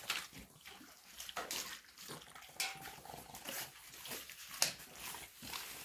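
Dogs chewing raw chicken and crunching the bones, with irregular cracks and crunches.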